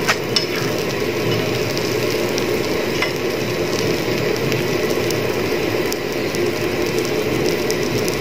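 Kerala parotta frying in oil on a hot griddle: a steady sizzle, with a few light clicks near the start and about three seconds in.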